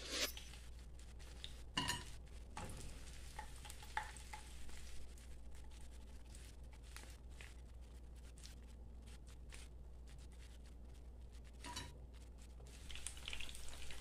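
Battered bertalha (Malabar spinach) leaves frying in shallow oil with a faint sizzle. A few light clicks of a metal slotted spoon and fork against the pan come as the fried pieces are lifted out.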